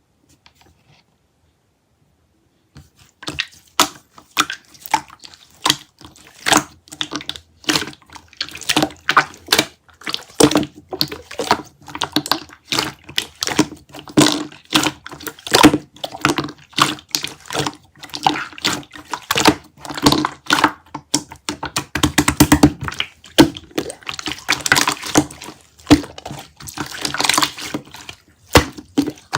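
Sky-blue slime being squished and pressed by hand, making wet clicks and pops a few times a second, starting about three seconds in.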